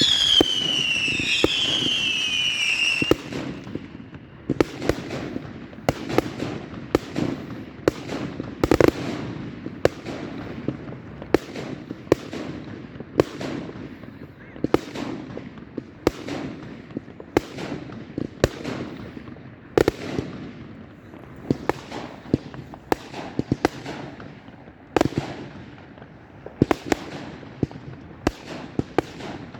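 Fireworks going off: falling whistles for the first three seconds, then a long, irregular run of sharp bangs, about one or two a second.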